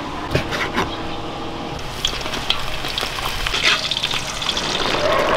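Food sizzling as it fries in a hot pan, with a steady hiss and scattered sharp crackles that grow busier about two seconds in.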